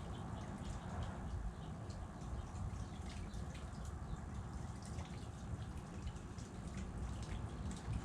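Irregular light ticks and clicks of birds pecking at sunflower heads, over a steady low rumble.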